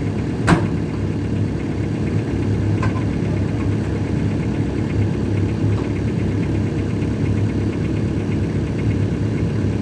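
Diesel car engine idling steadily, with a single sharp click about half a second in.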